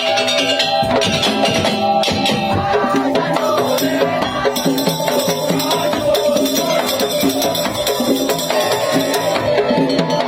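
Madurese ul-daul percussion ensemble playing a saronen-style piece: fast, dense drumming and rattling under a sustained, wavering melody line.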